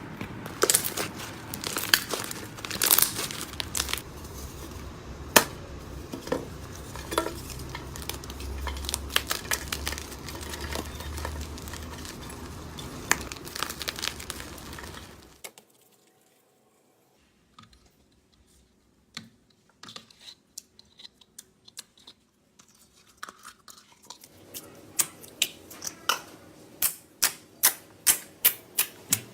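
Slime being squeezed and worked by hand, with crackling and crinkling clicks. The sound stops for a couple of seconds about halfway, then returns as scattered clicks, ending in a regular run of sharp pops about two a second.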